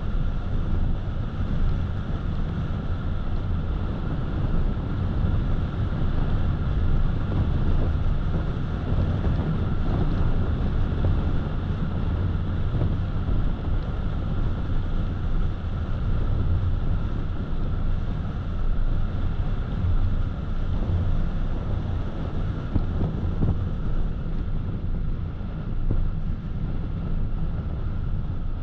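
Car driving at speed, recorded from the dashcam: a steady low rumble of tyres and engine with wind noise over it.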